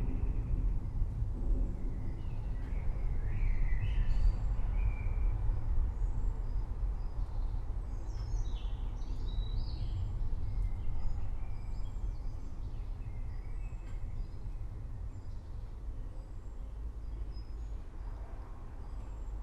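Forest birds chirping in short scattered calls over a steady low rumbling background of rain-and-storm ambience.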